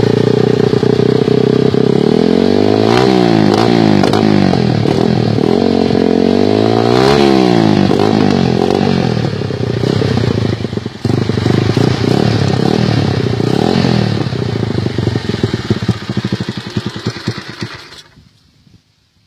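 Honda Sonic motorcycle's single-cylinder engine running loudly through an aftermarket exhaust pipe. It is revved up and back down twice, then runs unevenly before fading away near the end.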